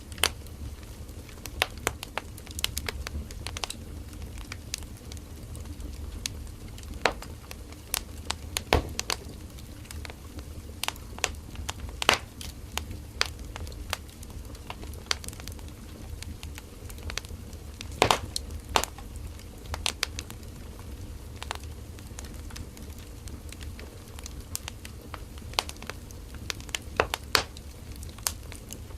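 Firewood burning in an open wood fire: a steady low rumble of flame with irregular sharp crackles and pops, a few louder pops scattered through.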